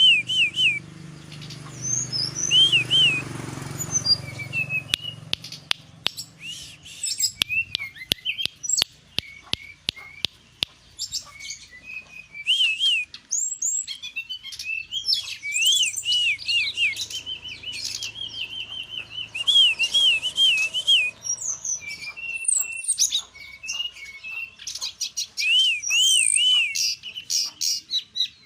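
Brown-chested jungle flycatcher (sikatan rimba dada coklat) singing continuously: repeated sweet whistled notes that rise and fall, mixed with quick higher trills, with sharp clicks between phrases.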